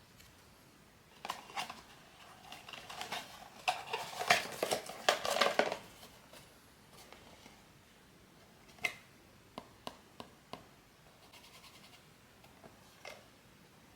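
Hands unboxing a blind-box figure: a busy stretch of packaging rustle and small hard clicks from about one to six seconds in, then a few single clicks of small plastic parts being handled.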